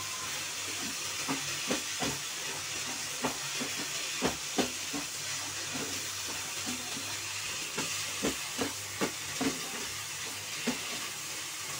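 Grated raw papaya and cream frying in ghee in a nonstick kadhai over a high flame, with a steady sizzling hiss. A wooden spatula stirs it, scraping and knocking against the pan in irregular strokes about once or twice a second.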